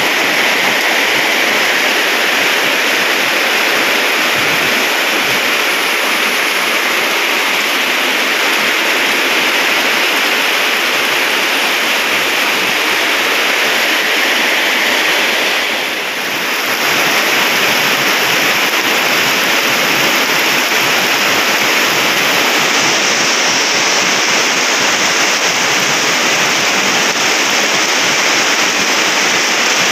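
Heavy rain pouring down steadily on a concrete road, a loud, even hiss that softens briefly about halfway through.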